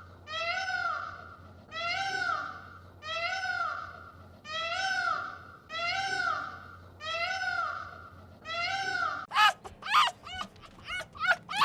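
A cat meowing over and over, about eight arched calls roughly a second apart. Near the end they switch to a rapid run of short, sharp, high calls from a different animal.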